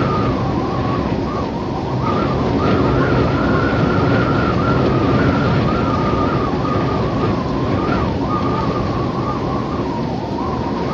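Desert wind soundscape: a steady rushing wind with a thin whistling tone that wavers up and down over it.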